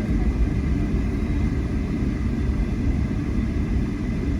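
Steady low rumble of an airliner at or near the gate, with a faint, steady high tone above it.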